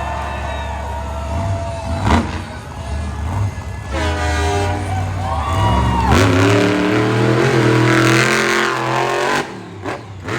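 Monster truck engine revving hard, its pitch rising and falling, with a sharp bang about two seconds in; the engine sound drops away suddenly near the end.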